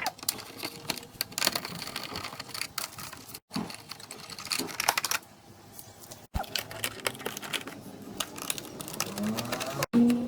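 Rapid, irregular clicking and knocking of tools working on metal parts, with three abrupt breaks where short clips are cut together.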